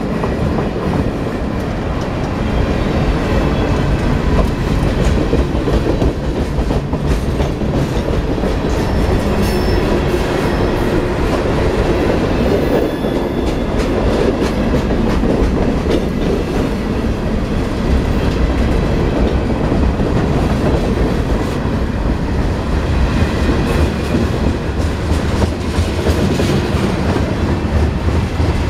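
Freight train cars (boxcars, covered hoppers and centerbeam flatcars) rolling past close by: a steady, loud rumble of steel wheels on rail, with scattered clicks as wheels pass over rail joints.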